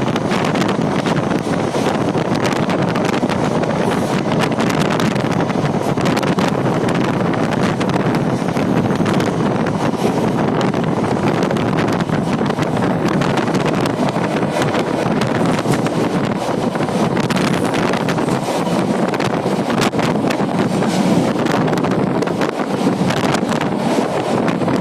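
Passenger train running along, a steady rumble with many small rattles and clicks, and wind buffeting the microphone.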